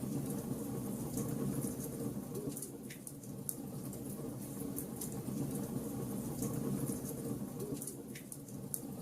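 Wood fire burning in a fireplace, logs crackling with many small irregular pops and snaps over a steady low rumble.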